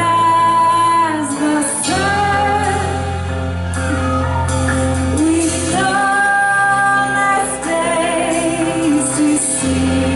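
Worship band music with a woman's singing voice holding long notes over sustained bass and keyboard or guitar chords, in a large hall.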